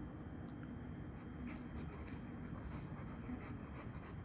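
A dog's faint panting and whimpering, over a steady low background rumble.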